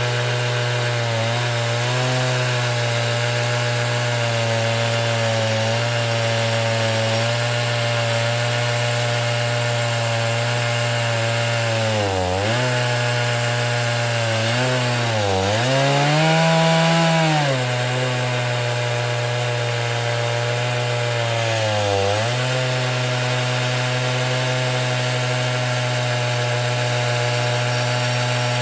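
Two-stroke chainsaw running at full throttle, ripping lengthwise through a pine log on an Alaskan chainsaw mill. Its pitch holds steady except for three brief dips as the engine bogs under the cut, and one short rise just after the second dip.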